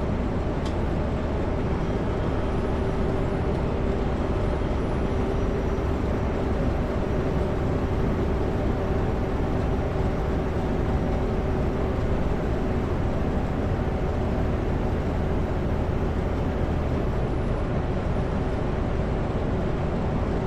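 Steady drone of a Kenworth W900L semi truck cruising on the highway: engine hum and tyre and road noise heard inside the cab, unchanging throughout.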